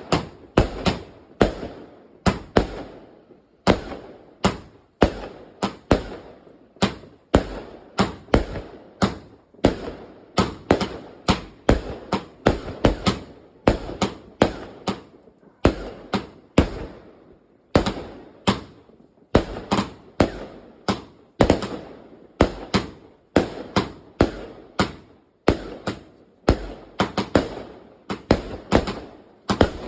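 Prestigious Pyrotechnics 'Lightning Storm' firework going off: a fast, irregular string of sharp bangs, several a second, each with a short echoing tail, in bursts broken by brief pauses.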